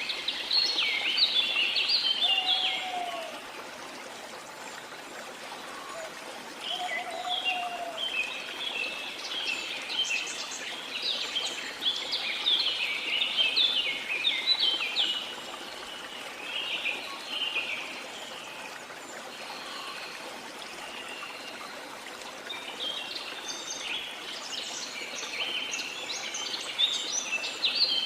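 Songbirds singing over a steady rush of running water: bursts of rapid, high chirping phrases come and go, with a few short lower whistled notes in the first eight seconds.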